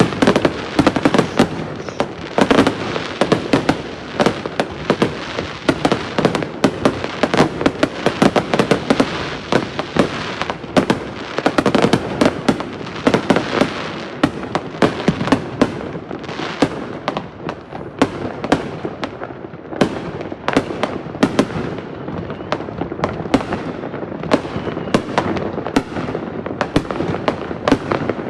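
Fireworks going off in a dense, continuous barrage of sharp bangs and crackles, several a second, with no pause.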